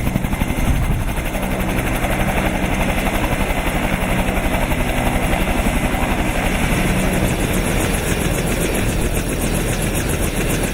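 Bell 222 twin-turbine helicopter running close by: a steady turbine hum and rush with a fast, even beat of rotor blade chop, at an even loudness throughout.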